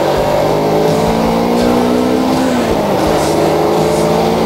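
Kawasaki Ninja 250R's parallel-twin engine running while riding along, its note steady and then dropping a little about two and a half seconds in, over a rush of wind and road noise.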